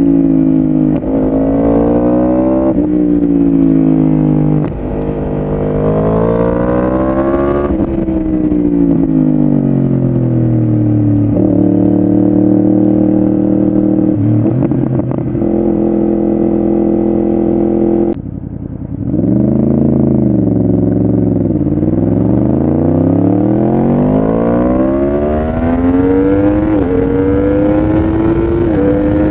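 Yamaha R1 inline-four sport bike with a full exhaust system, accelerating through the gears. The engine note climbs in pitch and drops back at each upshift, holds steady for a few seconds, then cuts off sharply with a brief lull. It then dips low and climbs through the gears again.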